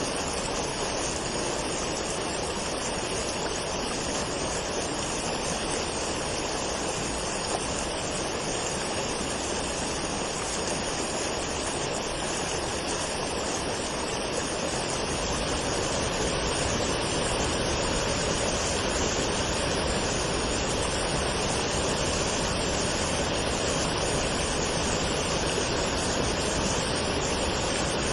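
Waterfall: a steady rush of falling water that swells slightly louder about halfway through.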